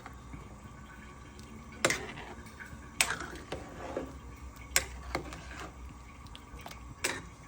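About five sharp clicks and knocks at irregular intervals, over a low, steady hum.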